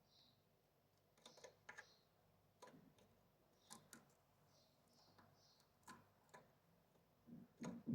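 Faint, irregular clicks and taps of a goldfinch-canary hybrid pecking at apple, the loudest cluster near the end, with a few faint short high notes.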